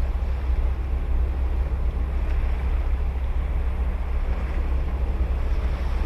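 Ocean surf breaking and washing on a beach: a steady wash of noise over a heavy low rumble.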